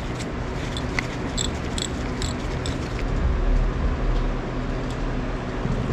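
A steady low rumble, with a few faint small metallic clicks in the first half as a screwdriver turns the air screw out of a small motorcycle carburetor.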